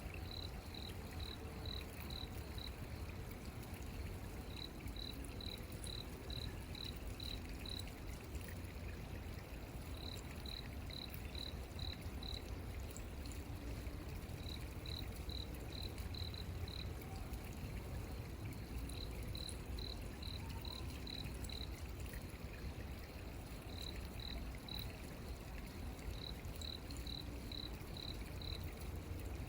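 Nighttime outdoor ambience: a high, even chirping from a calling insect or frog, in runs of six or seven chirps that come every four to five seconds, over a steady low rumble and hiss.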